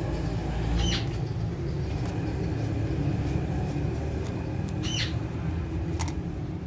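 Brief high chirps from Alexandrine parrots, one about a second in and another about five seconds in, with a few sharp clicks. A steady low rumble runs underneath.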